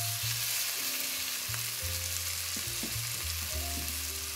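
Sliced mushrooms and chopped onion sizzling in butter in a frying pan, a steady hissing fry. Soft background music plays underneath.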